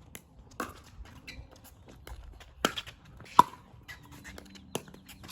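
A pickleball rally: a hard plastic ball popping off paddles and the court in sharp, hollow pops, irregularly spaced, the loudest about three and a half seconds in.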